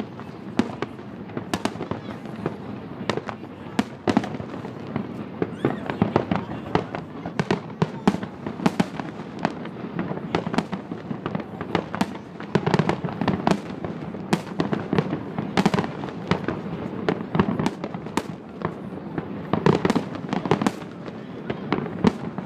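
Aerial firework shells bursting in rapid succession: a dense, irregular stream of sharp bangs, several a second, with louder clusters about halfway through and near the end.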